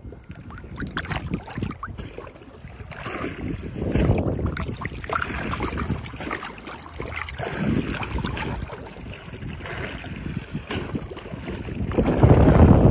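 Water sloshing and splashing around a small boat, with wind buffeting the microphone and a few scattered knocks; it gets louder near the end.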